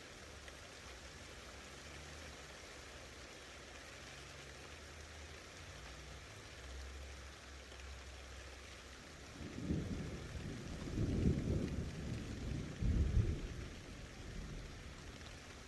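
Steady rain hissing, then about ten seconds in a roll of thunder comes through as several low surges over a few seconds before fading back under the rain.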